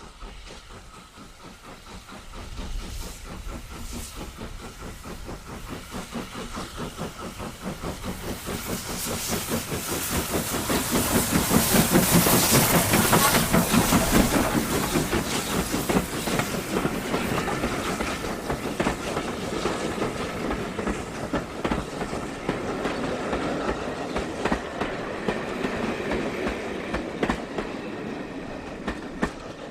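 Steam locomotive and its train passing, the rapid beat of the exhaust and the wheels clicking over the rail joints growing to loudest about halfway through, then slowly fading as the coaches roll on.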